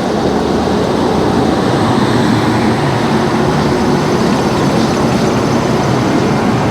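A moving train: a loud, steady rumble and rush of wheels on rails and air, which begins and ends abruptly.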